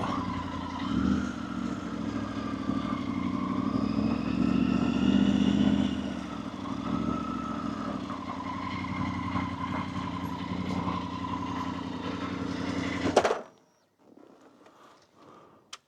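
Motorcycle engine running while riding, its note rising and easing gently with speed. It cuts off abruptly near the end.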